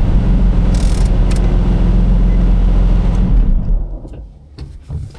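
Turbocharged Infiniti G37's V6 engine running loud and steady with a deep, even drone, which falls away sharply about four seconds in, leaving a few small clicks.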